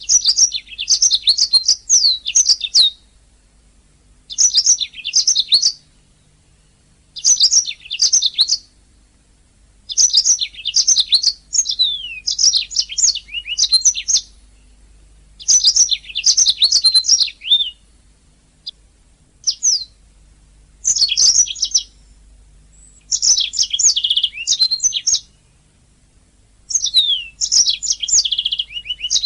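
Domestic canary singing in repeated bursts of rapid trills and chirps, each phrase lasting one to three seconds with short pauses between.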